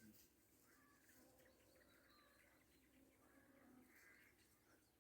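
Faint outdoor birdsong: a few short bird calls scattered over a quiet background.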